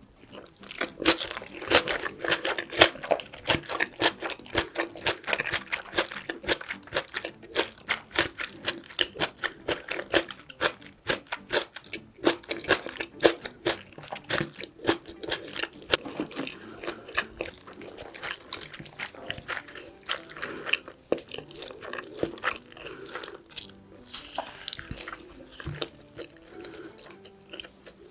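Close-miked eating of braised pork back ribs with kimchi: a dense, uneven run of wet chewing crunches and mouth clicks that starts about a second in.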